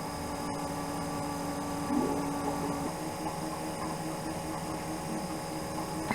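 Electric fuel pump, zip-tied under a 1969 Volkswagen Type 3 Fastback's fuel tank, running with a steady hum while it pumps fuel through newly replaced hoses.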